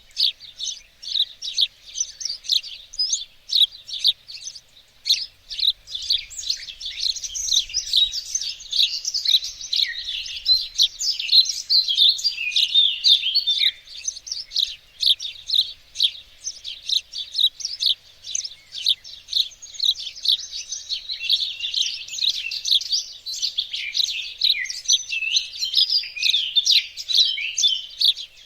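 Several small songbirds chirping and singing at once, a dense, continuous chorus of quick high twitters and trills.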